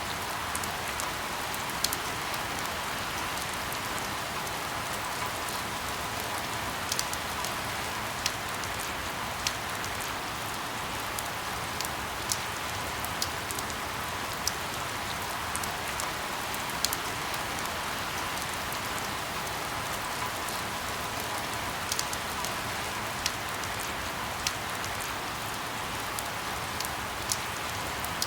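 Steady rain falling, an even hiss with scattered sharper drops ticking on a surface now and then.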